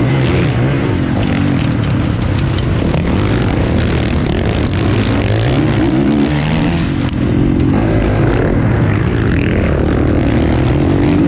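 450cc four-stroke motocross bike engine under race load, the revs rising and falling continuously as the bike is ridden around the track, with a few sharp ticks over it.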